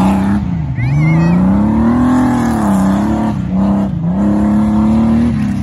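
Race truck engine revving hard, its pitch held high and swelling up and down, with brief drops in revs about a second in, near four seconds in, and at the end.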